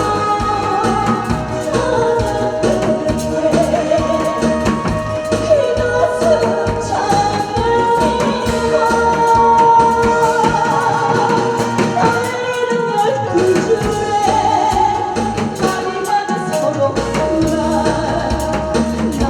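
A trot song sung live over a backing track with a steady beat; the bass drops out for a few seconds past the middle, then returns.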